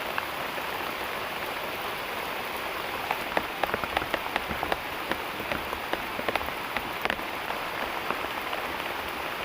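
Heavy rain falling as a steady hiss, with a cluster of sharp ticks and taps from about three to seven and a half seconds in.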